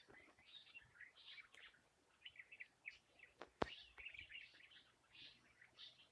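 Faint birdsong: several small birds chirping and twittering in many short calls, with one sharp click about three and a half seconds in.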